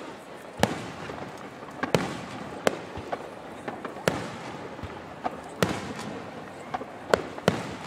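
Aerial fireworks shells bursting in the sky: about seven sharp bangs, roughly one every second or so, with smaller cracks in between.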